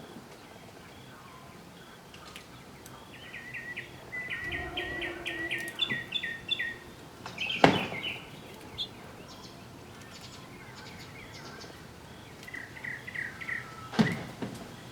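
Bird calls at a backyard feeder: a quick run of about a dozen short, evenly spaced chirps, a shorter run near the end, and two sharp knocks, the loudest sounds.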